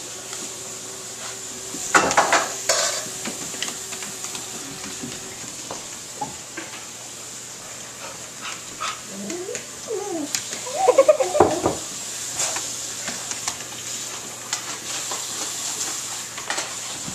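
Clinks and clatters, loudest about two seconds in, and a dog's warbling, Chewbacca-like grumble about ten seconds in, its pitch rising and falling for a couple of seconds.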